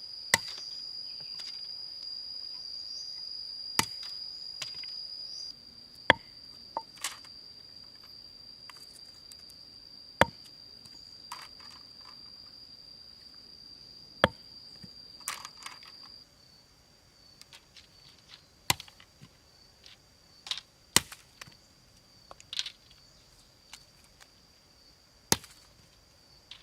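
About a dozen sharp chopping knocks at irregular intervals, over a steady high-pitched insect drone. The drone drops in level about five seconds in and again about two-thirds of the way through.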